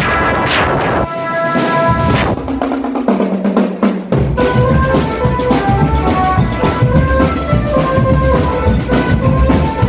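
Marching drum band playing: cymbal crashes over the first couple of seconds, then from about four seconds in a fast melody of short notes over steady snare and bass drum beats.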